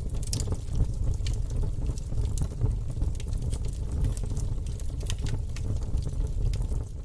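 Wood fire burning in a fireplace, logs crackling with frequent small sharp pops over a low steady rumble.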